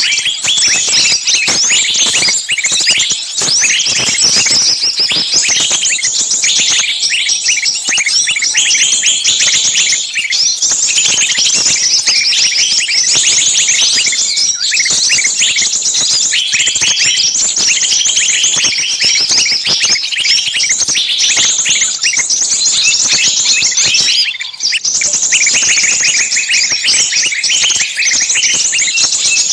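Many small birds chirping at once: a dense, continuous chorus of rapid, high-pitched overlapping chirps and trills that eases briefly about 24 seconds in.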